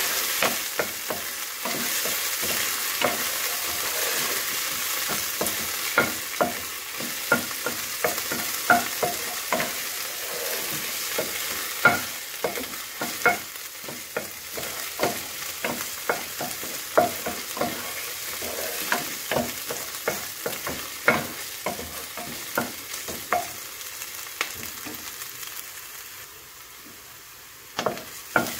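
Chopped onion, garlic and ginger sizzling in oil in a nonstick pan, stirred with a wooden spoon that knocks and scrapes against the pan in frequent sharp clicks. Near the end the stirring pauses for a couple of seconds, leaving only a softer sizzle, then starts again.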